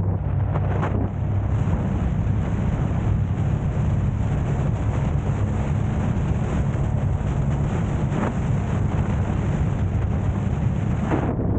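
Steady rumble of a moving car with road and wind noise, swelling briefly a few times.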